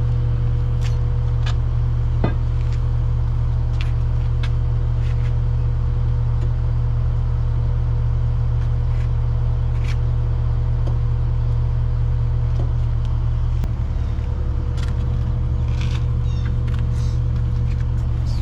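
Steady low hum of a running engine or machine, unchanging throughout, with scattered light metal clinks and knocks from tools or parts, one a little louder about two seconds in.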